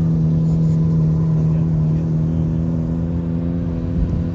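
A car engine held at a steady high rev, one constant droning note that doesn't rise or fall. A short thump sounds near the end.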